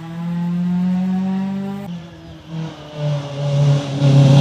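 A rally car's engine accelerating, rising in pitch, cuts off suddenly a little under halfway through. Another rally car's engine then comes in and grows louder toward the end as the car approaches.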